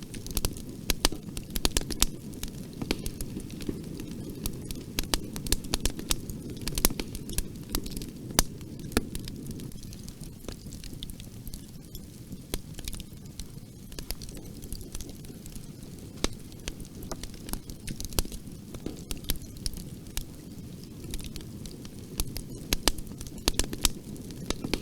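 Bonfire burning, with a steady low rumble of flames and frequent sharp, irregular crackles and pops of burning wood.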